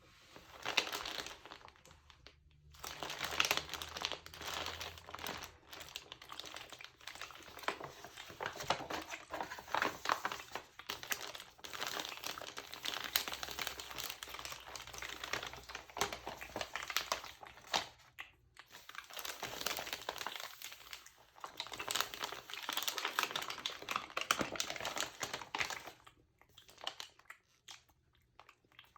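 Pages of a textured magazine being crinkled and crumpled by hand, a dense crackling that comes in bouts with short pauses.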